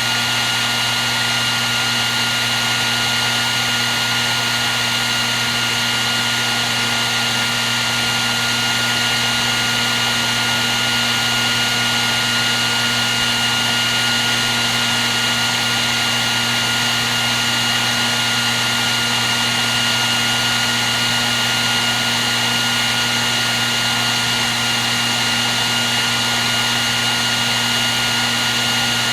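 Hair dryer running steadily: an even rush of blown air over a constant motor hum and whine held at fixed pitches.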